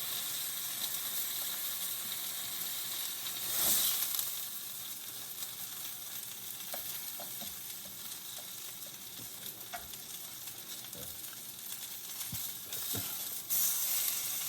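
Food sizzling in a hot frying pan, a steady hiss with a few light clicks. It swells louder about four seconds in and again near the end.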